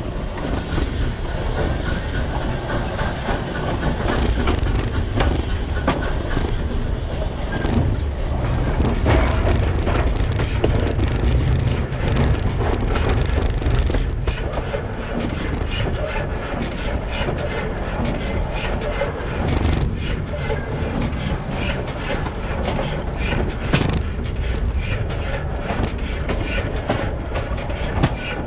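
Narrow-gauge train cars rolling slowly past: a steady low rumble with wheels clicking over the rail joints. A few short high chirps come in the first few seconds.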